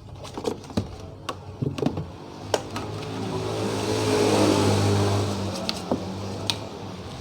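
A motor runs with a hum and a hiss that swells up and then dies away about five and a half seconds in, after a run of small clicks and knocks.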